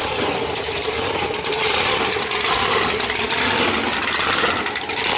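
Loud car engine running, a steady drone under a rush of exhaust noise that builds about a second and a half in.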